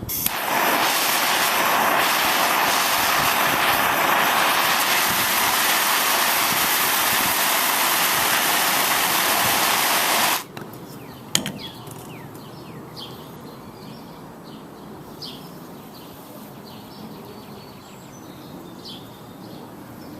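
Handheld gas torch burning with a loud steady hiss for about ten seconds, then shut off suddenly. A sharp click comes about a second later, and faint bird chirps follow.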